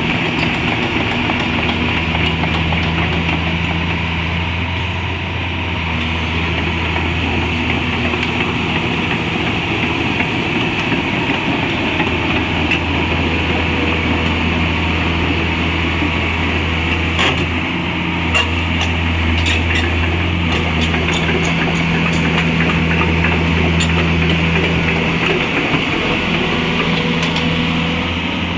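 Liebherr R 944B demolition excavator's diesel engine running steadily under a constant hiss, with a few sharp knocks and clicks in the second half.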